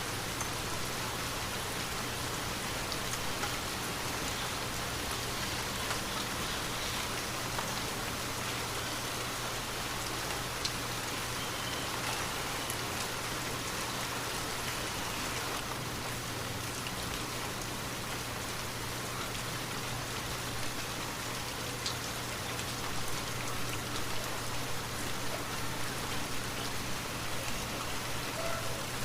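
Steady rain falling, with scattered drop ticks and a low steady hum underneath.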